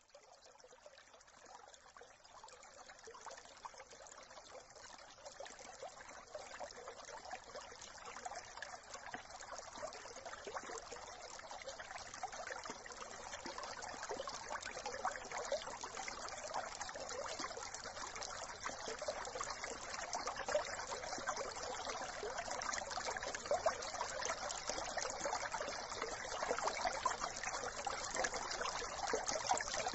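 Brook water trickling in a steady babble, gradually growing louder.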